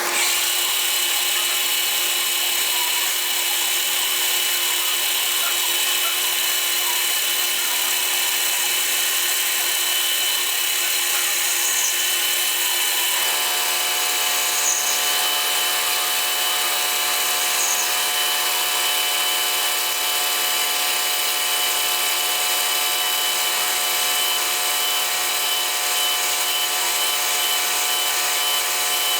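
Warco Super Mini Lathe running steadily while turning the piston rod for a model beam engine, a steady motor hum with a high whine. About halfway through the machine's note changes as a lower hum joins and holds.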